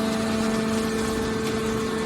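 Hydraulic scrap baler's power unit running: a steady machine hum at one constant pitch over a noisy rush.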